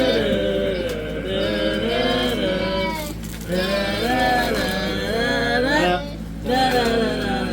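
A voice singing a wordless tune in held, sliding notes, in phrases with two short breaks.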